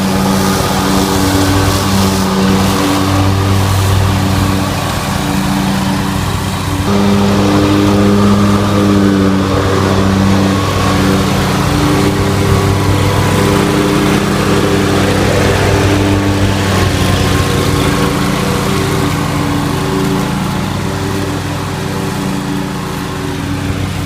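Riding lawn mower engine running steadily at mowing speed, its pitch wavering slightly as it works.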